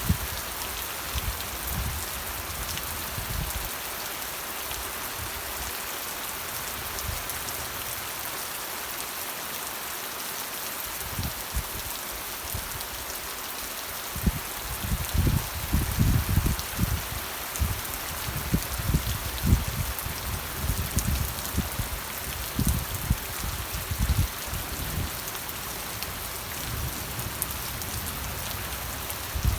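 Steady rain falling and pattering on a surface, an even hiss, with irregular low thumps that come thickest from about halfway through until near the end.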